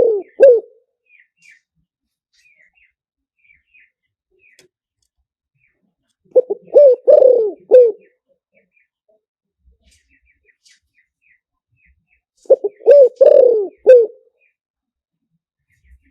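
Spotted dove cooing as a decoy call: three phrases of several coos each, about six seconds apart, the first already under way at the start. Faint short chirps of small birds between the phrases.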